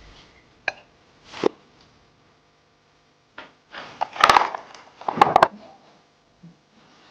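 Handling noises in a small room: a couple of sharp knocks, then two louder bursts of clattering and knocking about four and five seconds in.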